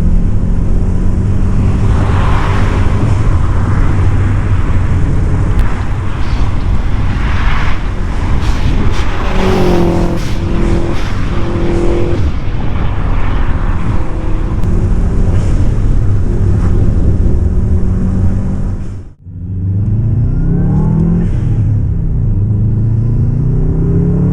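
Subaru Impreza WRX's flat-four boxer engine accelerating hard, revving up and shifting through the gears with repeated rising sweeps in pitch. About three-quarters of the way through, the sound cuts out abruptly for a moment and then resumes.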